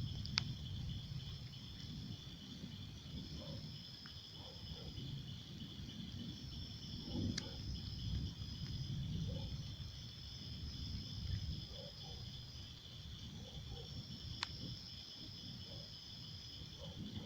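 Insects chirping: a steady high trill, with a second higher trill that repeats in spells of about two seconds. A low rumble runs underneath, and there are three faint sharp clicks.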